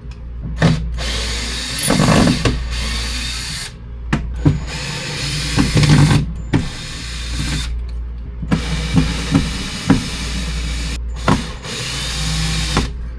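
Cordless drill running in several bursts of one to three seconds, with short pauses and a few knocks and clicks between them.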